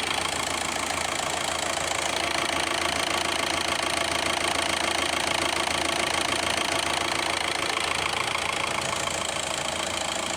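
Volkswagen Golf engine running at a steady idle.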